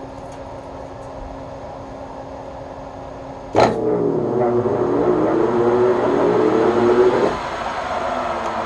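A steady electrical hum, then about three and a half seconds in a switch clicks and the Webb Whacheon lathe's motor starts at its 1800 rpm setting with a loud, wavering hum. The hum cuts off abruptly about three and a half seconds later as the home-built phase converter's start-capacitor safety trips, which the owner puts down to too much load at that speed. A lower, even noise remains afterwards.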